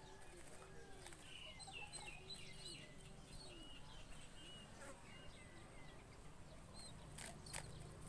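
Faint bird calls: a low cooing call repeated about twice a second for the first few seconds, with scattered high chirps over it. Two sharp clicks come near the end.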